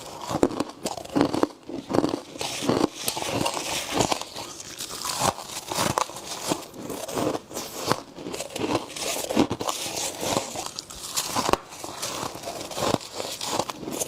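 A person biting and chewing frost close to the microphone: a rapid, irregular run of crisp crunches.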